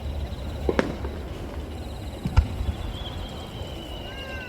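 Two booms of aerial firework shells about a second and a half apart, the second louder, over a steady low rumble.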